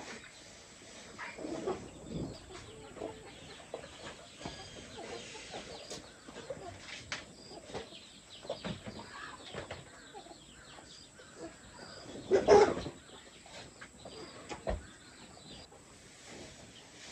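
Chickens clucking in scattered short calls, with one louder call or squawk about twelve seconds in.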